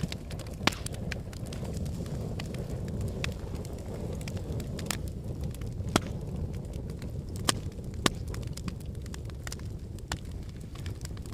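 Log fire burning in a fireplace: a steady low rumble of flames with sharp crackles and pops from the burning wood, scattered unevenly, a handful of them much louder than the rest.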